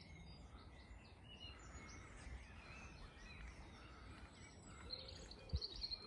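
Several songbirds chirping and calling faintly over a low rumble, with one short low thump about five and a half seconds in.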